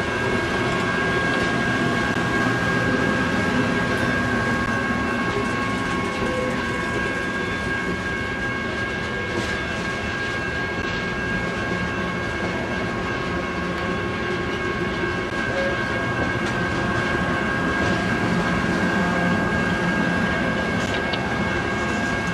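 Passenger cars of a circus train rolling past at steady speed, their wheels rumbling on the rails, with a steady high-pitched tone running through the passage.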